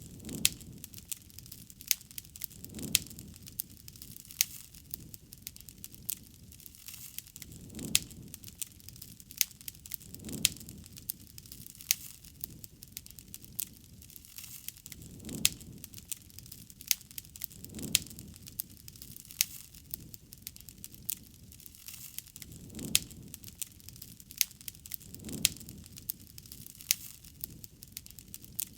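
Wood campfire crackling, with frequent sharp pops and snaps and a low rumble of flame that swells and fades every couple of seconds.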